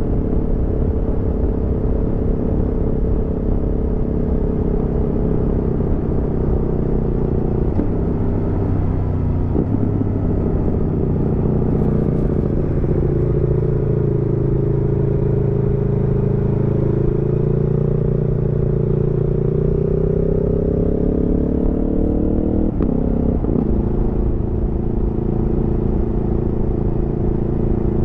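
Aprilia Tuono V4's V4 engine running under way, heard from the rider's seat. The revs drop twice around eight to ten seconds in, then climb slowly for several seconds, and around twenty-three seconds in there is a brief break followed by a drop in pitch.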